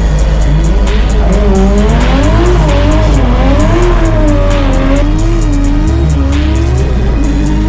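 Drift car engine revving up and down repeatedly as the throttle is worked, with tyres squealing, over background music with a steady beat.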